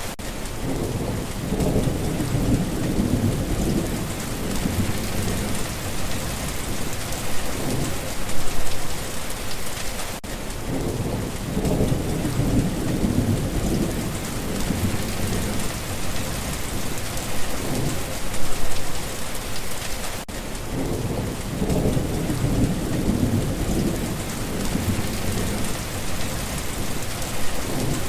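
Steady rain falling, with low rumbles of thunder that swell and fade three times.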